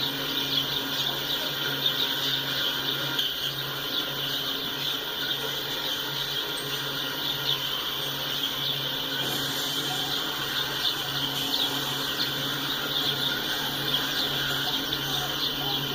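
Insects, crickets or cicadas, chirping in a steady high trill made of many fast ticks, over a low, evenly pulsing hum.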